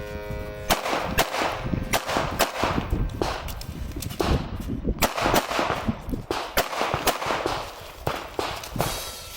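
CZ 75B pistol fired in quick strings of shots, roughly two a second, with short pauses between strings.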